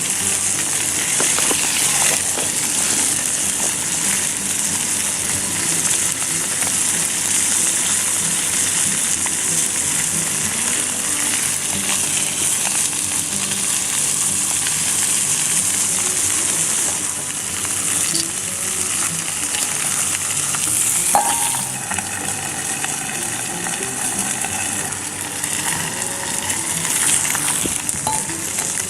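Food sizzling in a hot frying pan, a steady hiss throughout, with a single sharp knock about two-thirds of the way in.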